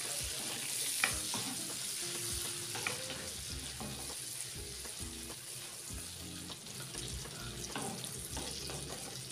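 Liver pieces and spices sizzling in hot oil in a kadhai while a spatula stirs them, with scattered scrapes and knocks of the spatula against the pan over a steady frying hiss.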